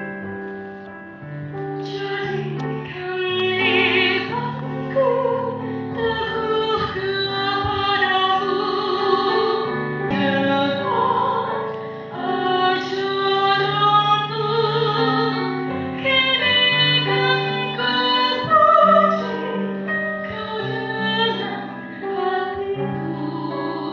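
A young woman singing solo in Indonesian in a pop-opera style, with vibrato on long held notes, over an arranged accompaniment of sustained low chords.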